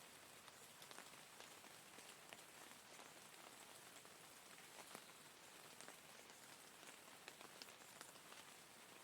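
Steady rain falling, a soft even hiss with the scattered ticks of single drops striking a surface.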